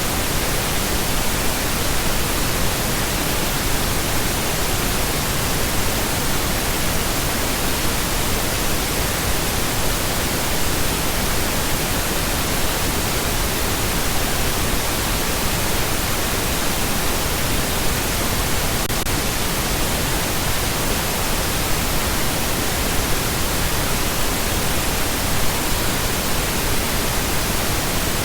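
Continuous pink noise: a steady, even hiss spread across the whole range, fuller in the low end than white noise.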